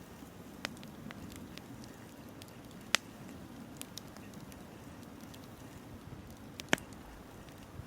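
Wood bonfire crackling, with scattered small snaps and two loud sharp pops, about three seconds in and near the end, over a steady low rush.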